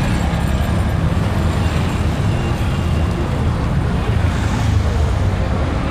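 A steady, loud low rumble of engines under a dense urban din, with no single event standing out.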